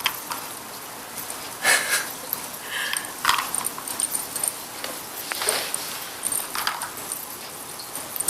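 Scattered light clicks and clatters of a cat pawing and batting at a treat puzzle toy, with a couple of short, high chirps in between.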